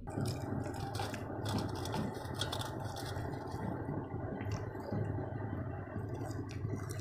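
Crisp crunching of Lay's potato chips being chewed, a quick run of crunches over the first three seconds, then a few scattered ones, with more near the end as a raw green chilli is bitten. A steady low hum runs underneath.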